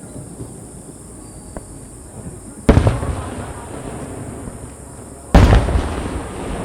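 Two large aerial firework shells bursting, about two and a half seconds apart, each a sudden loud boom that rumbles away over about a second.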